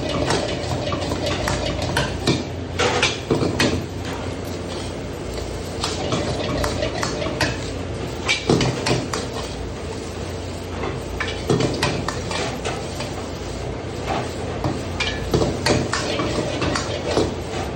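A metal spatula or ladle stirring and scraping in a cooking pan, with irregular clanks against the metal as food is tossed.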